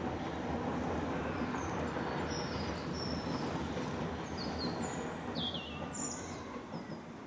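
South Western Railway electric multiple-unit train running steadily across a brick arched bridge, its noise easing off near the end as the last carriages clear. Birds chirp several times over it.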